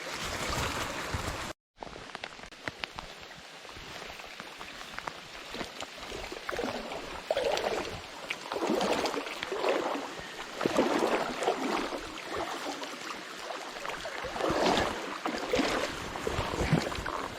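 Brook water running and gurgling, with uneven surges and splashes. The sound drops out briefly about a second and a half in, then the water resumes.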